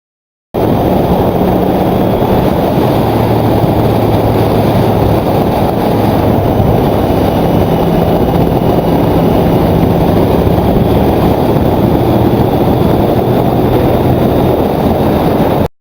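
Motorcycle riding at speed heard from on board: heavy wind rush over the microphone with a steady engine hum underneath. It starts abruptly and cuts off suddenly near the end.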